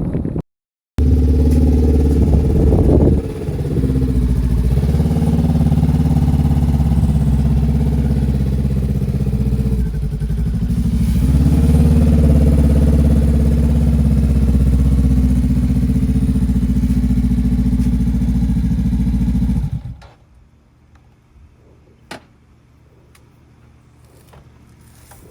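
A vehicle engine running steadily and loudly, its pitch shifting a little a few times, then cutting off suddenly near the end, leaving faint background hiss and a single click.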